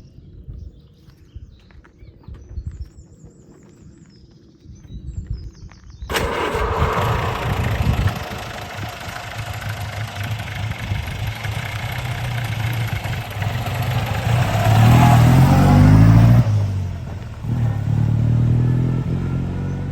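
The 1927 Lagonda 14/60's two-litre four-cylinder engine. A low rumble at first, then from about six seconds in, much louder running with the car under way. The revs climb to the loudest point near the end, drop, and pick up again.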